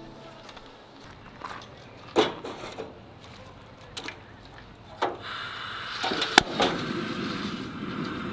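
A few scattered knocks, then from about five seconds in a steady hiss with one sharp click partway through.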